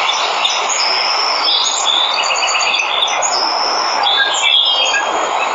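Steady rush of a waterfall with birds chirping and whistling over it, including a quick run of repeated notes about two seconds in.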